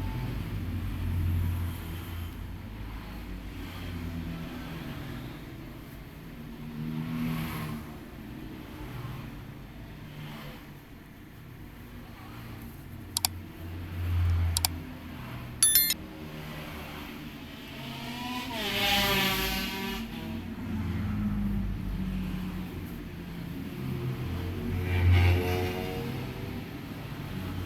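Road traffic outside: a steady low rumble with vehicles swelling past twice in the second half, and a few sharp clicks in the middle.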